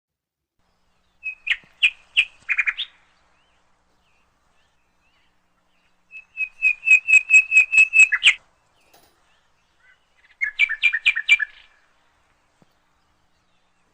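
A songbird singing three short phrases of rapid, evenly repeated high chirps, with pauses of a few seconds between phrases.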